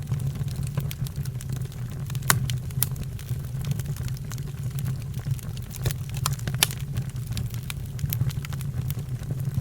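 Fire crackling: frequent irregular sharp pops and snaps over a steady low rumble, with the loudest pops about two seconds in and again past the middle.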